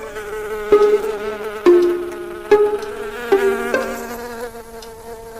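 A buzzing insect, its buzz shifting pitch with a sharp tap about once a second, five times in all.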